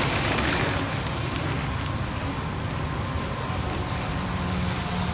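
Steady rushing wind noise buffeting the microphone, with a low rumble, as bikes are ridden fast down a dirt dual slalom course.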